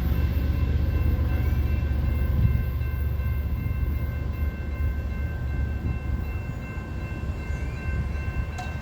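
Union Pacific freight train rumbling through a crossing, its low rumble easing off after a couple of seconds, with a faint steady chord of high tones held until near the end.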